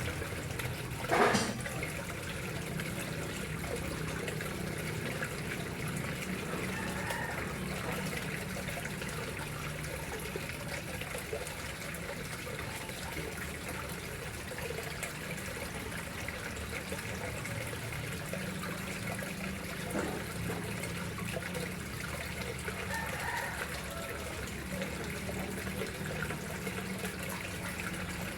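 Water flowing and trickling steadily into a koi pond, with one brief sharp louder sound about a second in.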